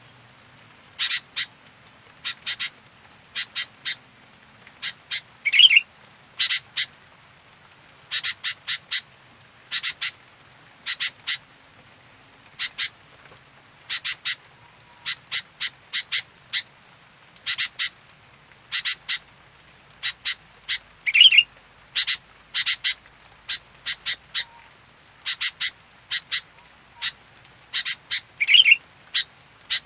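Sooty-headed bulbul (kutilang) calling actively: short clipped notes in clusters of two to four, repeated every second or two. Three times a louder wavering call stands out.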